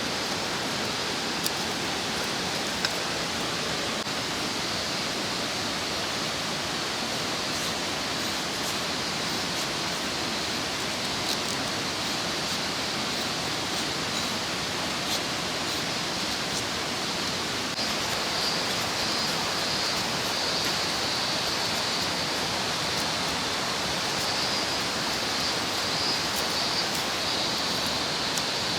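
Mountain stream rushing steadily: an even, unbroken wash of water noise, with a few faint clicks.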